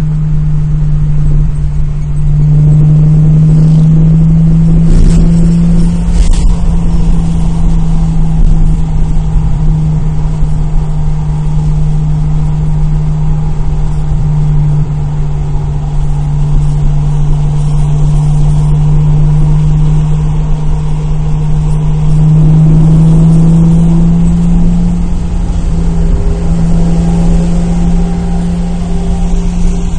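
A 2002 Nissan Maxima's 3.5-litre V6 running under way, a steady loud drone with road rumble. Its pitch drifts slightly and rises a little near the end as the revs change.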